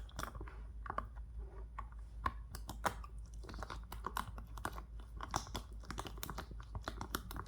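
A dog chewing and crunching dry kibble, with many short, irregular crunches and clicks.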